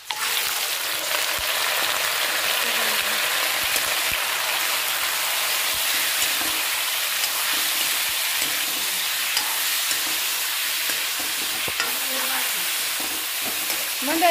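Raw chicken pieces hitting hot oil in a wok, sizzling loudly the instant they go in and then frying steadily while a metal ladle stirs them.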